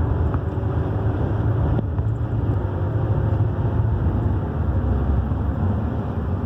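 Van driving at highway speed: a steady low rumble of engine and road noise.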